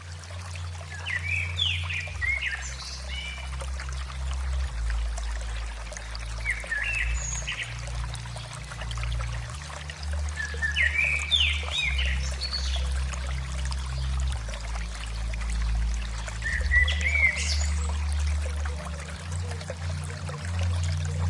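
A songbird repeating a short, quick warbled phrase about every five seconds over the steady trickling of running water.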